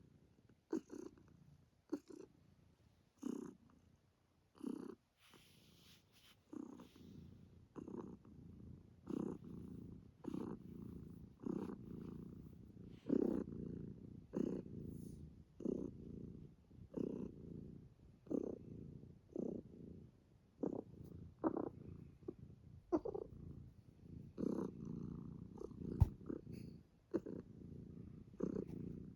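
Domestic cat purring close to the microphone, swelling with each breath about every second and a quarter. There is a single sharp tap near the end.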